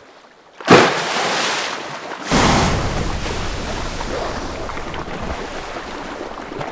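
Heavy splashing and surging of seawater as killer whales thrash a leopard seal at the surface, trying to drown it. A sudden loud splash comes just under a second in, and another deep surge about two seconds later, then a churning wash that slowly fades.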